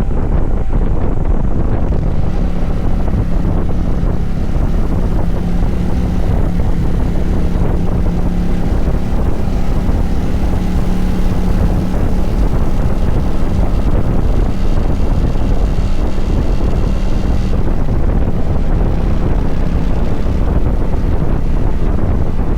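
Kawasaki Vulcan 900 V-twin motorcycle engine running at a steady speed, its low hum held under heavy wind rumble on the microphone.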